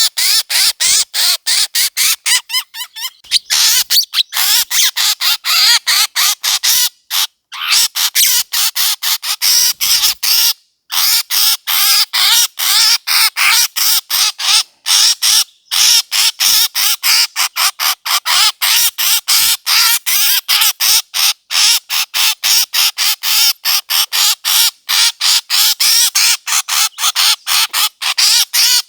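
Recorded bird calls of the kind used to lure birds for hunting: an unbroken series of short, harsh, high calls, about four a second, with a couple of brief pauses.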